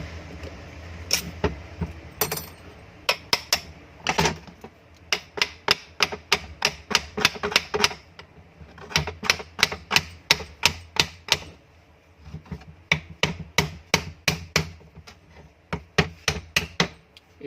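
Light hammer taps on a small exhaust-fan motor as it is worked apart, with sharp strikes coming in irregular runs of two to four a second.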